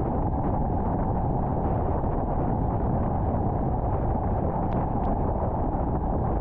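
Steady road noise of a car driving on the interstate: a continuous low rumble of tyres and wind at an even level.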